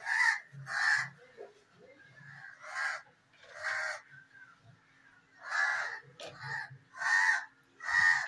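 A bird's harsh calls, about eight in a row, some in quick pairs, with short gaps between them.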